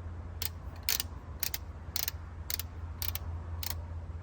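Click-type torque wrench being reset: the adjusting handle is turned and its detent clicks about twice a second, over a steady low hum.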